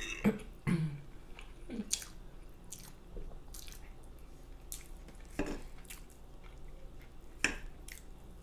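A person chewing food close to the microphone, with wet mouth smacks and clicks. A few louder smacks come about two, five and a half and seven and a half seconds in.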